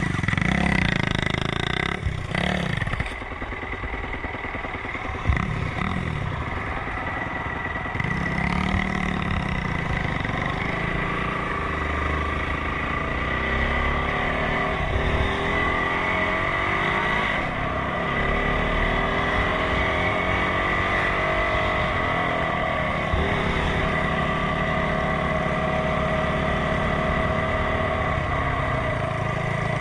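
Enduro motorcycle engine running under way, its pitch rising and falling as the throttle changes.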